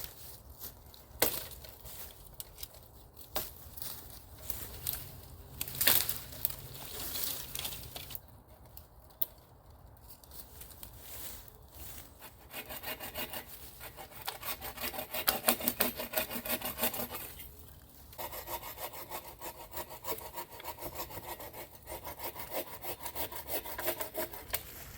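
Scattered knocks and snaps of wood being handled. About halfway through, a hand saw starts cutting wood in fast back-and-forth strokes, with one short break.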